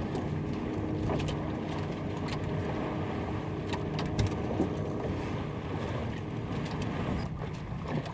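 Sailboat under way: a steady rush of wind and water noise with a low rumble, and scattered small clicks.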